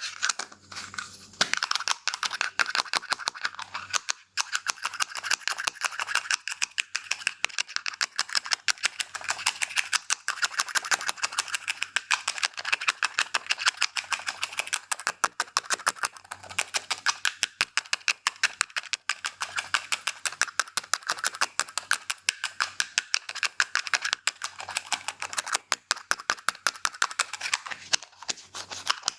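Scissors snipping hair in quick, even succession, about four snips a second, with a brief lull about four seconds in.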